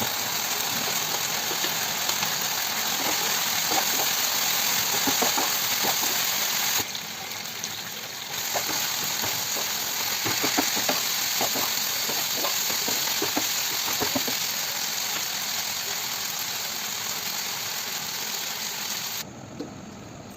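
Chilli chicken sizzling as it fries in a pan, with the quick clicks and scrapes of a spatula stirring it. The sizzle dips briefly partway through and drops suddenly near the end.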